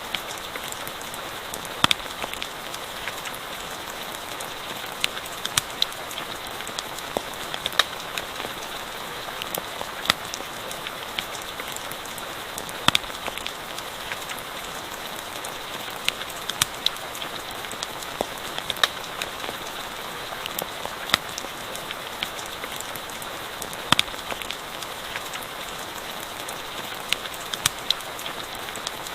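Steady rain falling, with irregular sharp pops and crackles from a campfire scattered through it.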